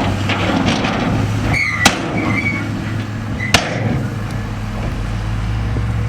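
Heavy earthmoving machinery with its diesel engine running steadily, and two sharp metallic bangs about a second and a half apart, each with a brief high squeal.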